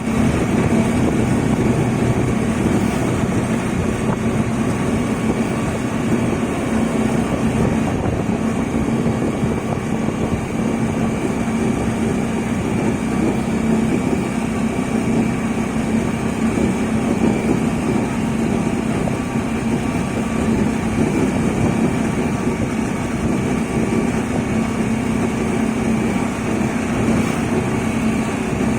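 A vehicle's engine running steadily with road noise: a constant low hum under an even rush.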